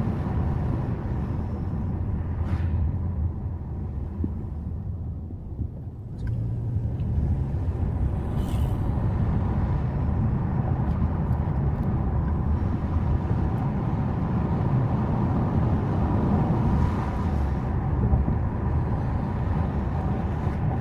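Subaru Forester driving uphill, a steady low rumble of engine and road noise that dips briefly a few seconds in.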